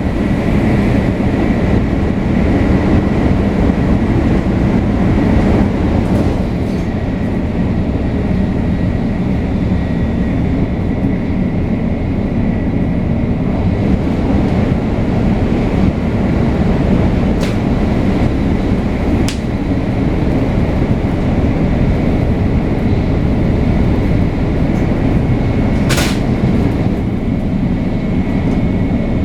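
Shinkansen 500 series train running at speed, heard on board: a steady, dense rumble of wheels and running gear with a thin high whine from its Toshiba GTO-VVVF traction drive. A few brief sharp clicks sound in the second half.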